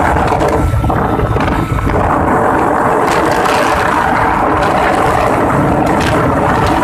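Suzuki GS150 motorcycle's single-cylinder four-stroke engine running flat out at about 100 km/h, mixed with a steady rush of wind on the microphone.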